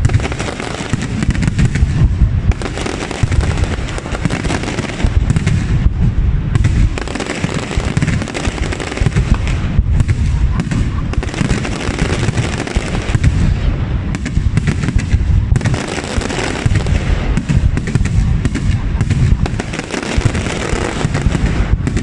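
Fireworks display: a dense, continuous barrage of bangs and crackles with deep booms, without a pause.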